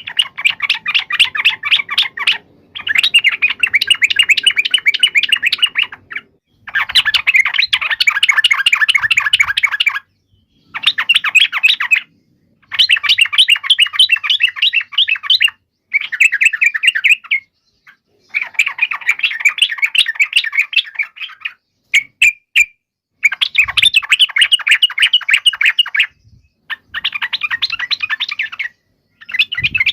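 Yellow-vented bulbul giving loud, rapid chattering phrases, about ten bursts of quick notes, each a second or three long, with short pauses between: the agitated 'fighting' call that keepers use as a lure to make other bulbuls answer.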